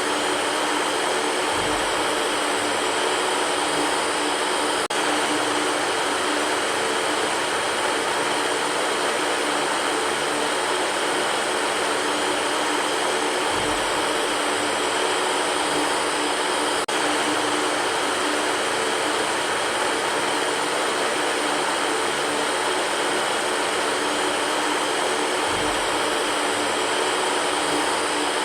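Electric fan running steadily: a constant rush of air with a faint hum of steady tones. A faint low bump recurs about every twelve seconds.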